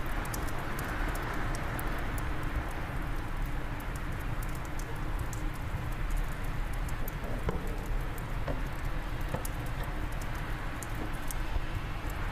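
Fireplace wood fire crackling with frequent small, sharp pops over a steady rush of wind.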